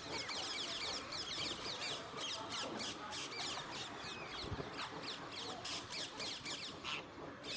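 Several Alexandrine parakeets calling together: a dense, continuous run of short, high screeches, each falling in pitch, several a second.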